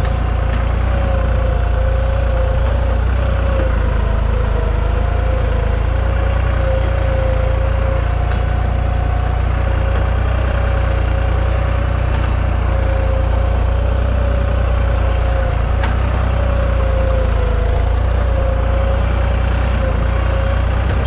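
Deutz 55F tractor's diesel engine running steadily under load while pulling a duck-foot cultivator, with a deep, even rumble and a constant engine tone that wavers slightly.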